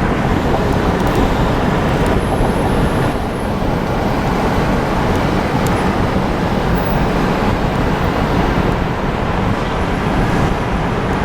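Steady road traffic noise: an even, continuous rumble of passing vehicles.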